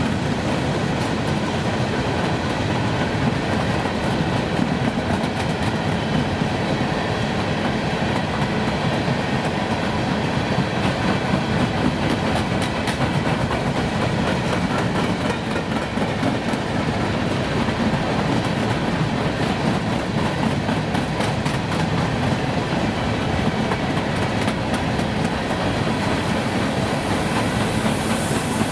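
Railroad cars of a passing train rolling by on the track, a steady rumble with the wheels clicking over rail joints. A high hiss rises near the end.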